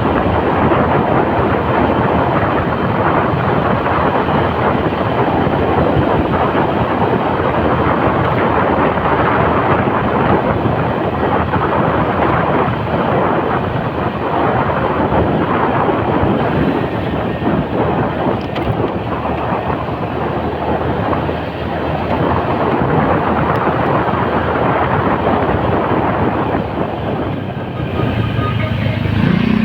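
Motorcycle on the move: a steady rush of wind on the microphone mixed with engine and road noise.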